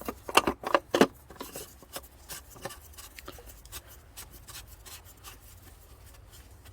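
Hand-fitting of an oil filter cartridge and its housing cap: a few sharp knocks and clicks in the first second, then lighter irregular clicks and rubbing.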